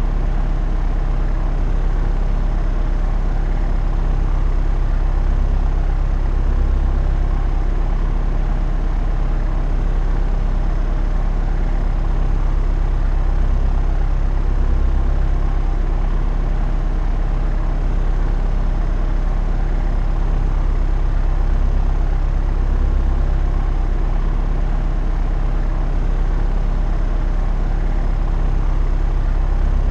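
Propeller aeroplane in flight: the steady, loud drone of its engine and propeller, a deep hum that swells gently every several seconds.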